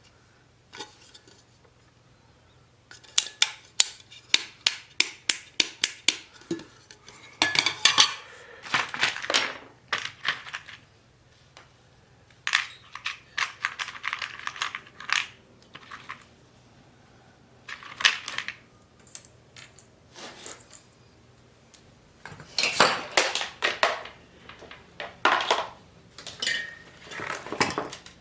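Metal parts and tools clinking and clattering as they are handled. A run of sharp, evenly spaced clicks, about three or four a second, comes a few seconds in, followed by irregular bursts of clatter.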